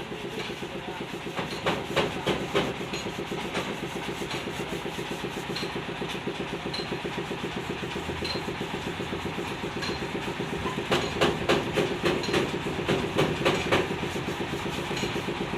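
An engine running steadily with a fast, even pulse, with a few louder metallic knocks over it.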